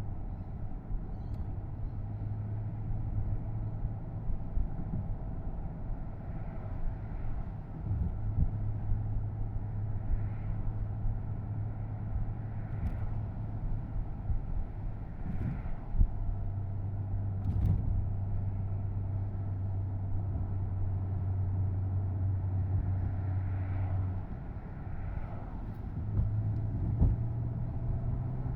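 Porsche Boxster S (987.2) flat-six engine running at a steady cruise, heard from the open-top cabin over road and tyre noise. The steady engine note drops away briefly several times.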